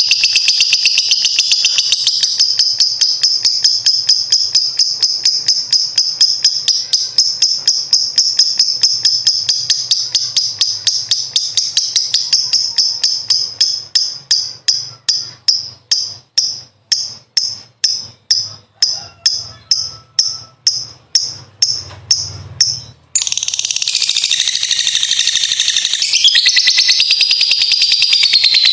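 Lovebird's long 'ngekek' chatter: a fast, shrill run of sharp repeated notes that slows after about 13 s into separate pulses about three a second. About 23 s in it breaks off, and a denser, shrill trill with a short falling note follows.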